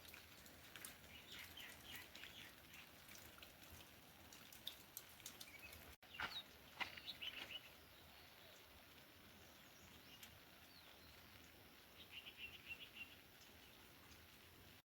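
Faint bird chirps and short trills come and go over a quiet outdoor background, with scattered small clicks in the first half.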